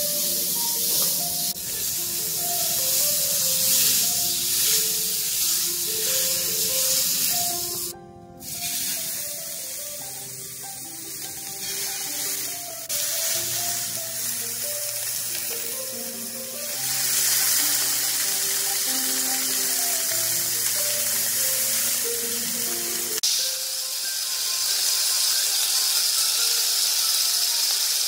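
Chicken satay skewers sizzling on a hot, margarine-greased non-stick grill pan, a steady hiss under background music with a simple melody. The music stops a few seconds before the end, leaving the sizzling alone.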